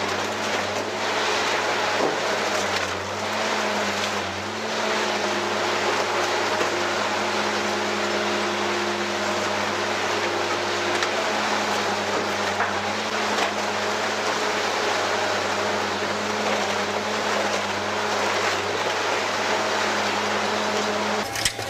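Car-scrap shredder with rotating cutter shafts tearing up car body parts: a loud steady machine drone over a low electric hum, with grinding and crunching of metal. It breaks off near the end.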